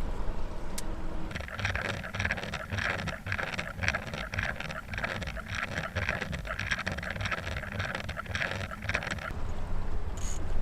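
Fishing reel clicking rapidly as line is let out behind a trolling boat, starting about a second in and stopping abruptly near the end, over the steady low hum of the boat's motor.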